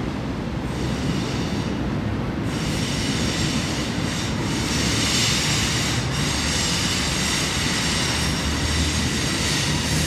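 Steady rumbling, hissing noise with a thin high ring over it, growing louder about two and a half seconds in.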